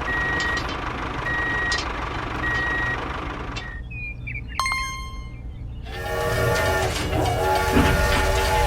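A vehicle reversing alarm beeps about once a second over a steady machine hum. After a short quieter gap, a loud horn-like chord of several steady tones sounds from about six seconds in, breaking off once.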